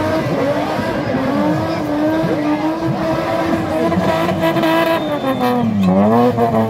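Car engine held at high revs while the car spins doughnuts in a spinning display, the revs dropping sharply and climbing back about six seconds in.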